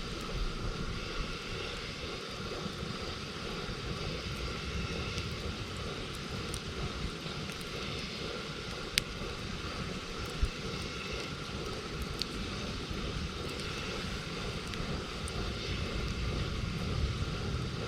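Campfire burning with faint crackles and an occasional sharp pop, over a steady low rumble.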